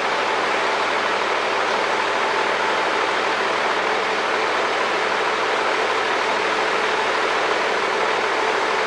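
A machine engine running steadily: an unchanging drone with a constant hum through it.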